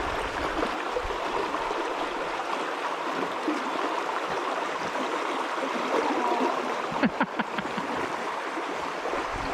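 River water flowing steadily over the streambed, an even rushing sound, with a few brief clicks about seven seconds in.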